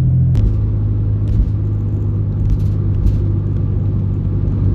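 A moving car's engine and road noise heard from inside the cabin: a steady low drone. About half a second in there is a click, and after it the drone settles slightly lower.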